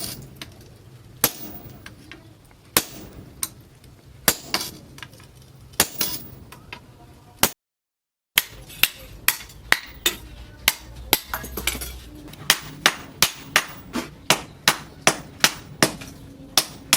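Hammer blows on steel forging a knife blade: single strikes about a second and a half apart, then a moment of dead silence, then quicker strikes, about three a second.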